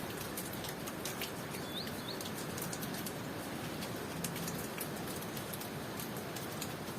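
Steady tropical rain, with sharp drops ticking throughout, and a bird giving two short rising chirps about two seconds in.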